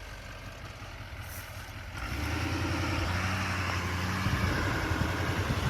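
Heavy-duty pickup truck's engine straining to drive out of deep mud, throttle picking up and the engine getting louder about two seconds in as it works against the bog, with a few sharp knocks near the end.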